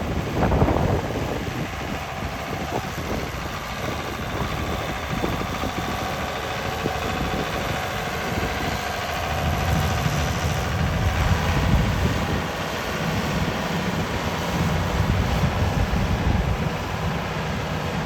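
A 1972 Ford 8000 tractor's six-cylinder diesel engine idling steadily, with wind buffeting the microphone, loudest just at the start.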